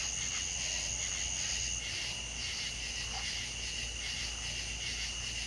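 Night insects, crickets, trilling in a steady chorus at two high pitches; the higher trill cuts off about two seconds in while the lower one carries on.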